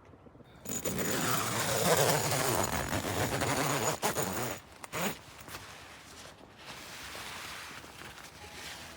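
Loud rustling of fabric for about four seconds, with a short sharp sound about five seconds in, then softer rustling.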